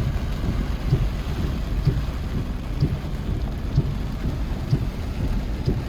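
Steady low rumbling noise of rain and wind on the microphone, with a soft thump about once a second.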